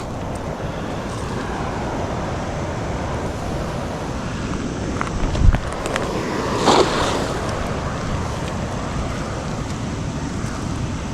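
Steady rushing noise of the waterfall, with a single low thump about five and a half seconds in and a short burst of louder noise about a second later.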